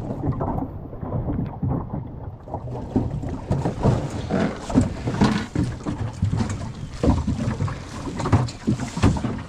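Irregular knocks and clatter from the fittings and hull of a small centreboard sailing dinghy rocking in short waves, over a low rumble of water and wind. The top end sounds muffled for the first two seconds or so.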